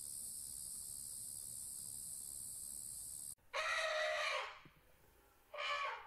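A steady high-pitched insect drone cuts off abruptly about three seconds in. A bird then gives a loud, harsh call about a second long, followed by a second, shorter call near the end.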